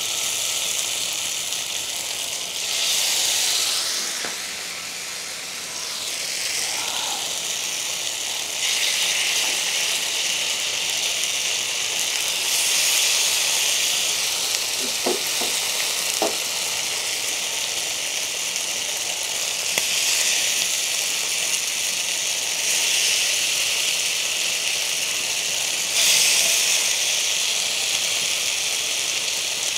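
Marinated chicken pieces sizzling in a hot, lightly oiled cast-iron pan. The sizzle swells in steps several times as more pieces are laid into the oil.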